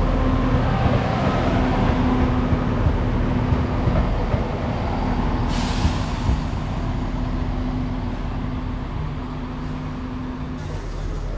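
Class 170 Turbostar diesel multiple unit passing, its underfloor diesel engines humming steadily over the rumble of wheels on rail. There is a short hiss of air about halfway through, and the sound slowly fades in the second half.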